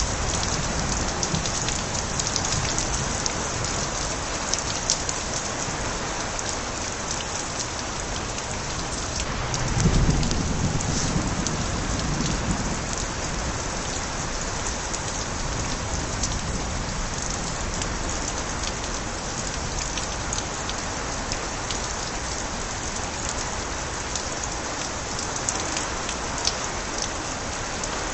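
Steady heavy rain with water spilling from overflowing gutters, sharp drips and splashes throughout. About ten seconds in, a low rumble of light thunder swells and fades over two or three seconds.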